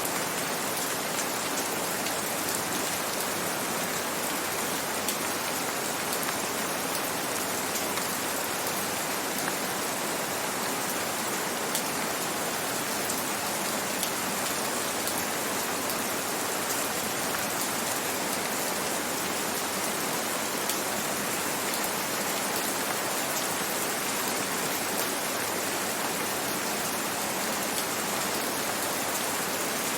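Gentle rain falling steadily: an even, continuous hiss with faint scattered drop ticks.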